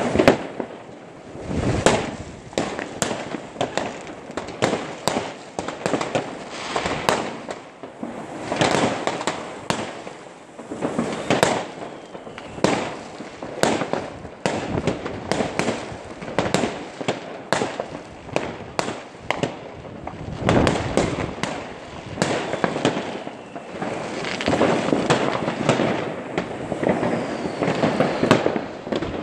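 Many fireworks going off at once: rocket bursts and firecrackers giving sharp bangs several times a second, with crackling between them.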